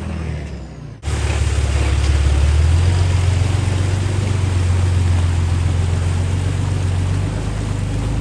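Off-road 4WD engine running steadily at low revs with a deep rumble, starting abruptly about a second in after a quieter sound fades out.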